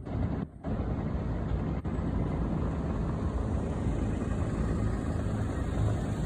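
Bell 212 helicopter's rotor and engine heard as a steady, heavy noise, with a brief dropout about half a second in.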